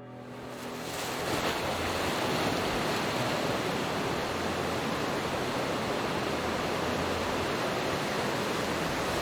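Ocean surf from a typhoon swell breaking in heavy, close-out waves: a steady wash of noise that fades in over about the first second and then holds even.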